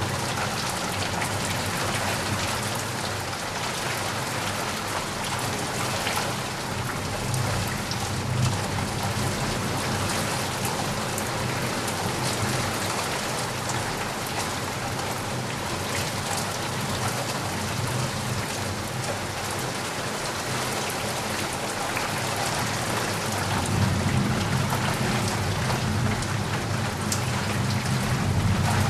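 Steady heavy rain pattering on surfaces, with a low rumble building in the last few seconds.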